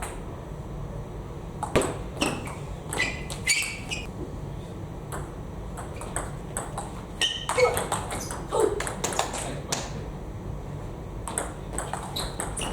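Table tennis ball clicking off rackets and bouncing on the table in quick rallies, three runs of sharp ringing pings with short pauses between, and a couple of brief squeaks.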